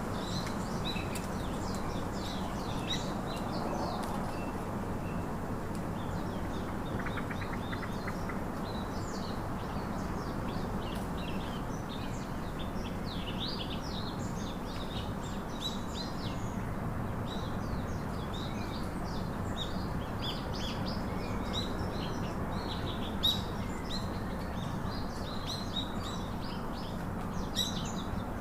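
Many small birds chirping and twittering, short high calls overlapping throughout, over a steady background hiss.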